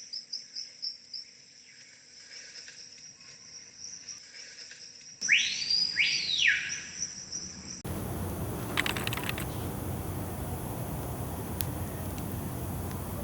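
Crickets chirping in rapid high pulses, then, after a cut, two loud whistles that each rise and fall. About eight seconds in, a steady even hiss takes over, with a few faint clicks.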